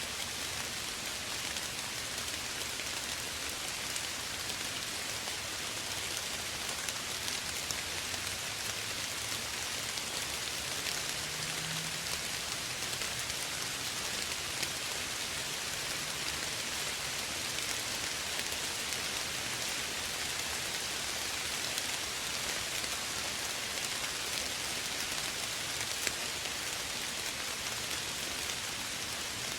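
Soft rain falling steadily, a continuous hiss scattered with many fine drop ticks.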